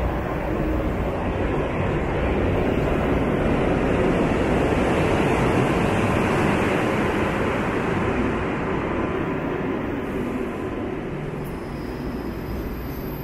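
Train running on the tracks: a rushing rumble that swells to a peak midway and then slowly fades.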